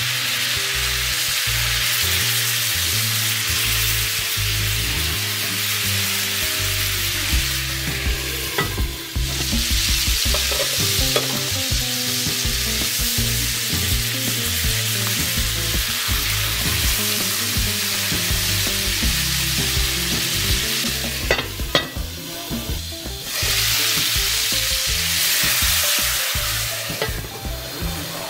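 Chicken breasts sizzling as they fry in a pot, with a few clicks of tongs against the pot as the pieces are turned. The sizzle thins out briefly about nine seconds in and again just past twenty seconds.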